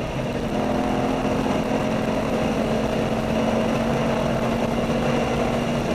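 V8 engine of a performance car heard from inside the cabin on a track lap, holding steady revs after a small drop in pitch right at the start, over a constant rush of wind and road noise.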